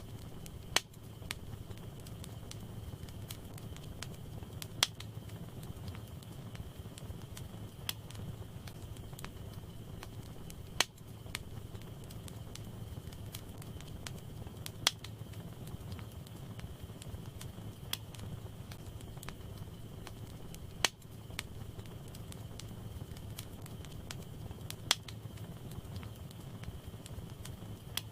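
Wood fire burning in a fireplace: a steady low rumble of flames with small crackles, and a sharp pop from the burning logs about every three to four seconds.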